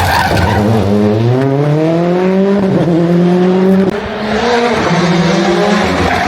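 Rally car engine under hard acceleration, its pitch climbing for about two seconds and then holding. About four seconds in it cuts briefly, as on a lift-off or gear change, then pulls again at a steady pitch.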